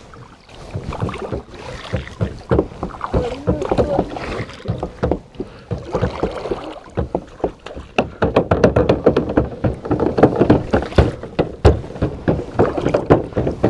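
Kayak paddles dipping and splashing in the water as the kayak gets under way, with water gurgling and dripping around the blades and hull. The splashing picks up and grows louder about halfway through.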